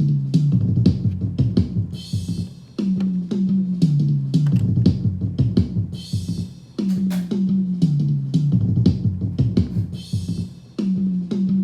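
Playback of a song's multitrack stems in a mixing session: a drum beat over a bass line stepping down in pitch. The same phrase repeats about every four seconds, each time opening with a bright hiss.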